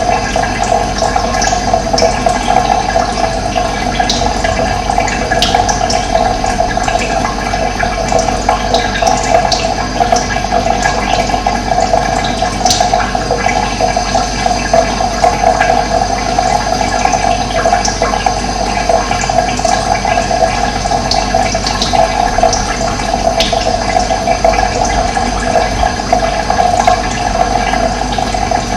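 Running water rushing steadily, with brief high bird chirps now and then.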